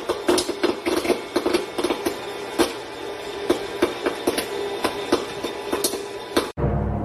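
A rapid, irregular series of sharp clicks and knocks, several a second, over a steady hum, cutting off abruptly near the end.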